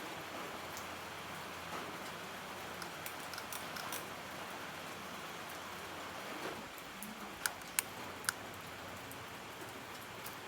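A steady, even hiss with three sharp clicks close together about seven and a half seconds in.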